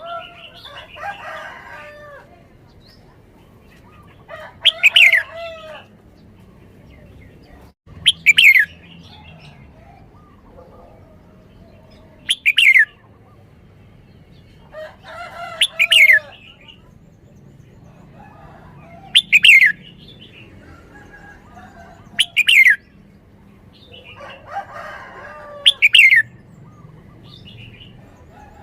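Red-whiskered bulbul singing: a loud, sharp whistled note that falls steeply in pitch, repeated about every three to four seconds, with softer warbling phrases between some of them.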